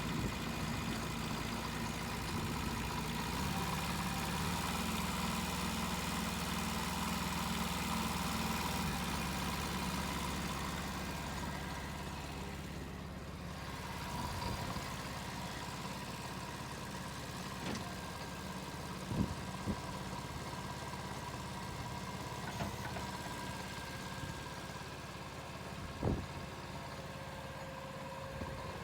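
Two-cylinder diesel engine of a Yanmar C12R-A carrier dumper running steadily, with a few sharp knocks about two-thirds of the way in and again near the end.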